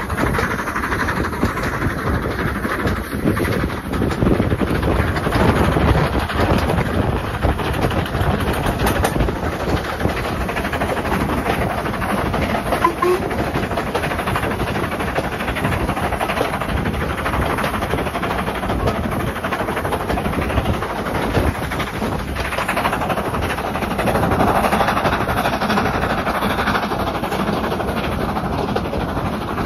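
Steam-hauled passenger train heard from an open carriage window while running: a steady rumbling rush of wheels on rail and passing air.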